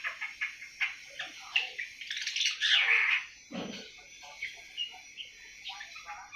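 Seven-month-old awar-awar bird twittering in quick, short chirps, loudest a couple of seconds in: the soft 'ngriwik' chatter of a young bird beginning to sing.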